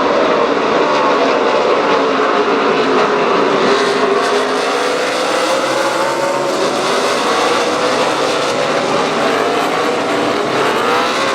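NASCAR Nationwide stock car V8 engines running at racing speed. The engine note falls over the first few seconds and then climbs again toward the end.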